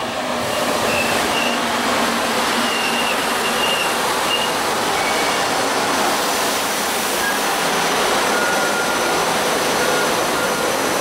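A SEPTA Silverliner IV electric multiple-unit train rolling past close by: a loud, steady rush of wheels on rail and running gear, with faint, brief high tones now and then.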